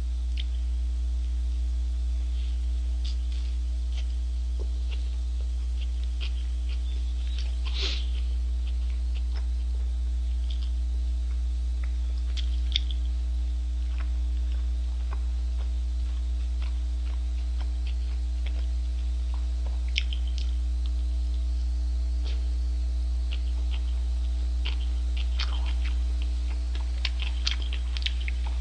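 A person chewing a mouthful of hamburger, with small wet clicks and smacks scattered throughout, over a steady low hum.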